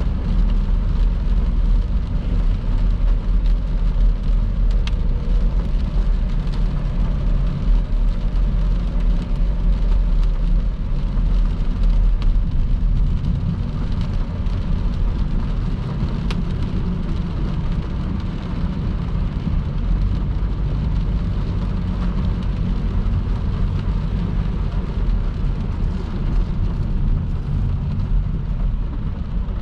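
Car driving at speed on a rain-soaked motorway: a steady low rumble of tyre and road noise with the hiss of rain and spray.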